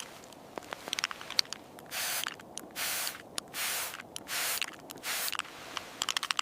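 Light scattered clicks, then five short hissing bursts, each about half a second long, in quick succession.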